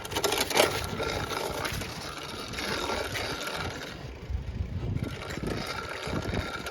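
Wind buffeting a chest-mounted phone microphone while riding a bicycle, with tyre and drivetrain noise underneath as a steady rushing and low rumble.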